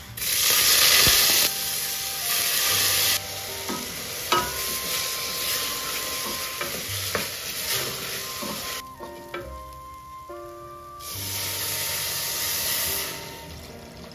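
Raw rice and moong dal sizzling in hot ghee in a pressure cooker as they are dropped in and stirred with a wooden spatula. The sizzle starts at once and is loudest at first, breaks off a little past halfway, then comes back for about two seconds before fading.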